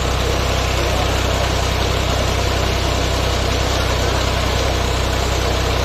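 Tractor engine running steadily at constant speed, belted to a tubewell pump, with a steady rushing noise over its low hum.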